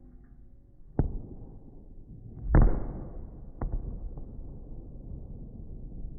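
A few sharp bangs: a short crack about a second in, a louder, longer bang about two and a half seconds in, then another crack a second later and a faint one after it.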